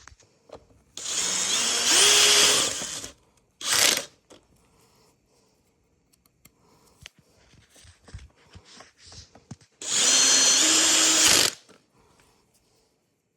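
Cordless power drill/driver motor run in short bursts, two longer runs of about two seconds each and one brief spin between them, pitch rising as it spins up. Faint clicks of parts and tools being handled in the gaps.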